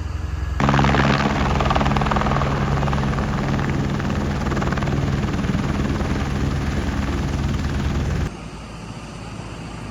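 Eurocopter EC145 helicopter running, a steady thrum with a low hum. It turns abruptly louder about half a second in and drops back sharply near the end.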